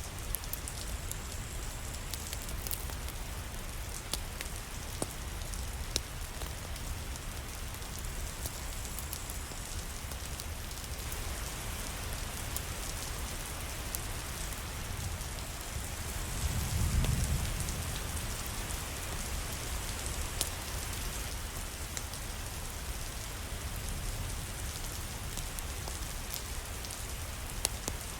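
Steady rain falling, an even hiss with scattered sharp ticks of drops. About two-thirds of the way through, a low rumble swells briefly and fades.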